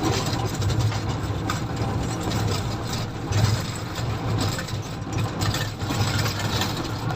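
Komatsu motor grader's diesel engine running steadily with a low, even drone, with a noisy mechanical rumble over it.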